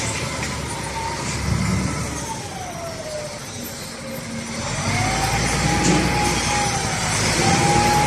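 SDLG LG956L wheel loader's diesel engine running under changing throttle, with a whine that falls and rises with the revs. The engine eases off about three to four seconds in and picks up again about a second later.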